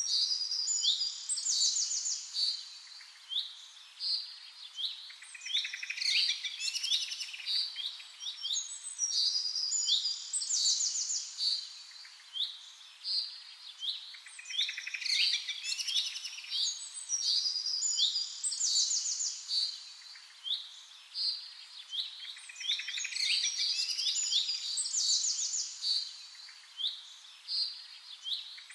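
Songbirds chirping and singing: quick high twittering trills and short sweeping chirps that come and go in bursts every second or two.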